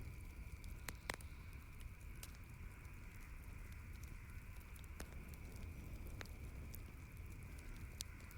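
Campfire crackling: scattered sharp pops from the burning wood, the loudest about a second in, over a steady low background hiss.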